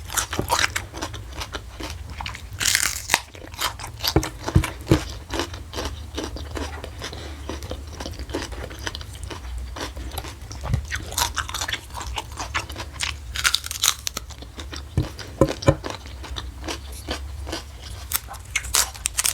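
Close-miked chewing and crunching of food in the mouth: irregular crisp crunches and wet mouth clicks, with a steady low hum underneath.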